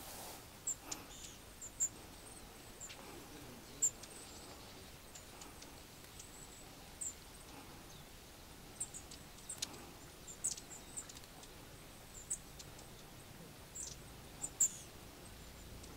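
Long-tailed tits calling: short, very high thin notes, scattered irregularly and sometimes in quick clusters of two or three.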